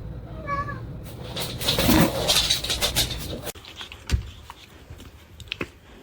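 A pet animal's short high-pitched cry about half a second in, followed by a few seconds of rustling and scuffling noise with a lower cry, then a few scattered clicks.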